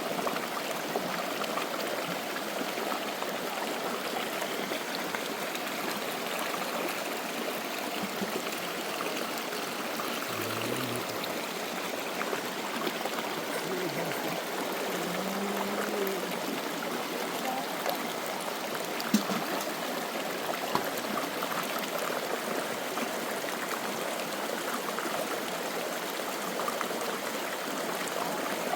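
Steady rush of flowing water, like a stream running over stones, with a single sharp click about two-thirds of the way through.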